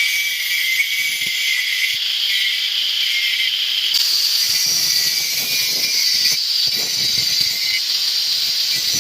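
Small plastic rocker switch being ground down with an abrasive to fit a dashboard switch blank: a steady, high-pitched grinding hiss that changes texture a couple of times.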